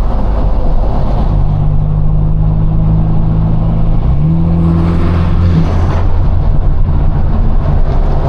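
Straight-piped BMW 428i's turbocharged 2.0-litre four-cylinder running loud under acceleration. Its pitch rises about four seconds in, holds for a second or so, then drops away.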